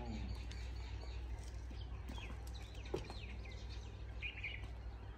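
Birds chirping in short, quick rising and falling calls over a steady low rumble, with a single sharp click about three seconds in.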